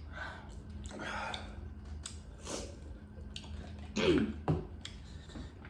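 Sharp sniffs and breathy exhales from someone eating fried chicken in very hot habanero sauce, with a short falling groan about four seconds in, the sounds of fighting the chili burn.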